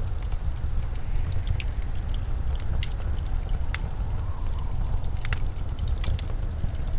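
Steady low rumble of winter storm wind, with scattered sharp little clicks and crackles over it.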